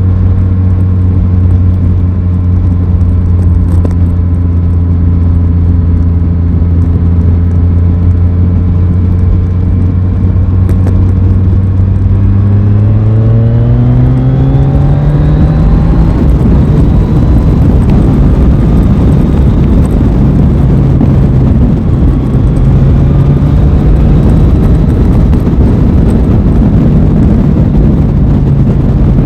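Aprilia Tuono 660's parallel-twin engine under way, holding steady revs at first. About 13 seconds in it revs up in a rising pull, then runs on steadily under a loud rushing noise.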